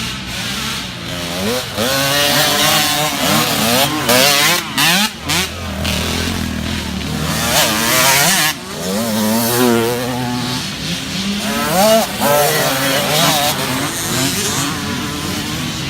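Several small youth dirt bikes racing, their engines revving up and down so the high, buzzing pitches rise and fall over one another as the bikes accelerate and shift.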